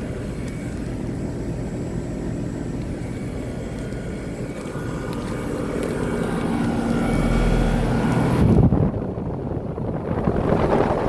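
Outdoor central air conditioner condensing units running: a steady hum and fan drone that grows louder, with a brief knock about eight and a half seconds in, after which the hiss drops and the sound turns rougher.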